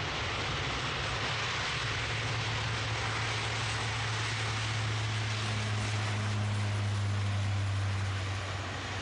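Aircraft engines running, a steady low rumble under a broad hiss; a second, higher hum joins about five seconds in and fades near the end.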